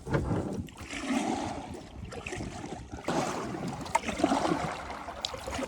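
Kayak paddle strokes in the water: three splashing, rushing surges a second or two apart.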